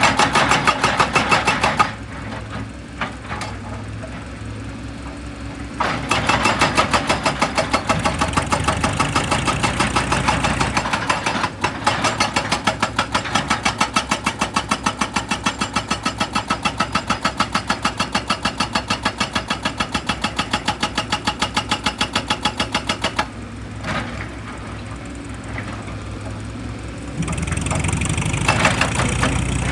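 Heavy machinery hammering in rapid, even blows, about three a second, in long bursts. Between the bursts an engine runs at a lower, steadier note.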